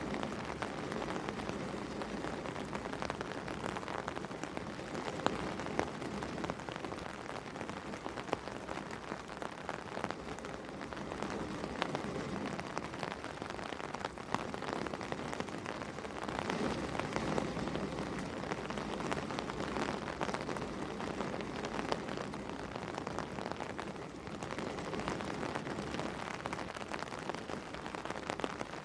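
Steady rain falling on a surface, with many individual drops ticking and now and then a louder drop standing out.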